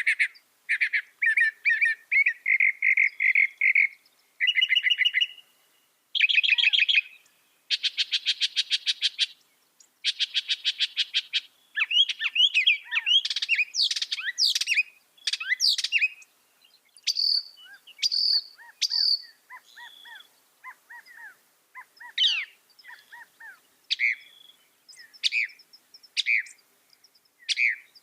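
Mockingbird singing a long run of varied phrases, each repeated several times in quick succession before switching to a new one: buzzy trills, fast rattling runs and sweeping whistled notes.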